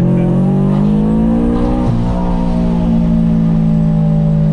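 Supercharged Subaru BRZ's flat-four engine and catless single-exit exhaust pulling hard under acceleration, pitch climbing. About two seconds in there is a quick gear shift, and the engine then carries on at high revs.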